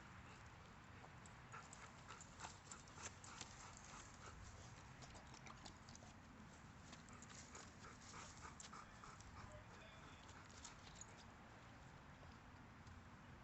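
Faint, irregular clicking of a dog's claws on a hard floor as it moves about. The clicks come thickest through the first two-thirds and thin out near the end, over low room noise.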